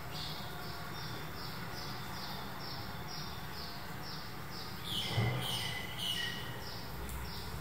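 A bird repeating a short, high, falling chirp about three times a second. About five seconds in come a few louder falling squeaks and a soft thump.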